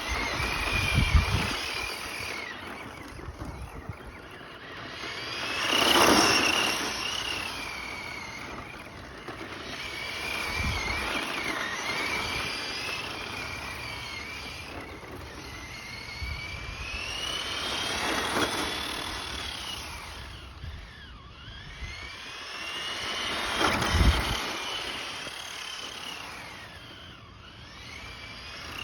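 Small electric motor of a remote-control toy car whining as it speeds up and slows down, the pitch rising and falling. It swells loudest three times as the car comes close, about six, eighteen and twenty-four seconds in.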